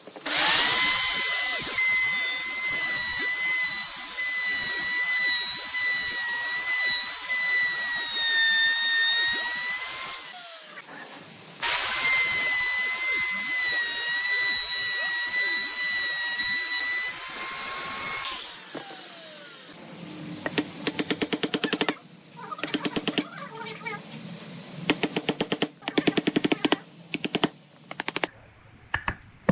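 Electric power tool running at high speed with a steady high whine, in two long runs of about ten and seven seconds; its pitch sags slightly under load near the end of the first run. Then a string of short, quick bursts follows.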